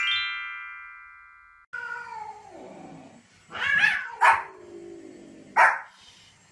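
A chime sweeping down in pitch rings out and fades over the first second and a half. Then a cat meows in long calls that fall in pitch, and a small white spitz-type dog gives a few short, sharp barks, the last one a little past five and a half seconds in.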